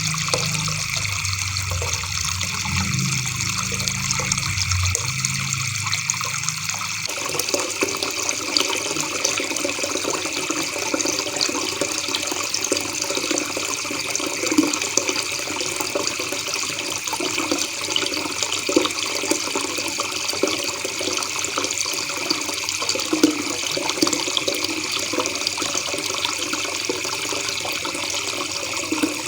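River water babbling: a steady, even rush of flowing water.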